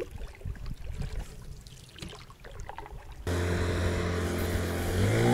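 Faint water and handling clicks, then after about three seconds an engine cuts in abruptly and runs steadily, its pitch rising and growing louder near the end.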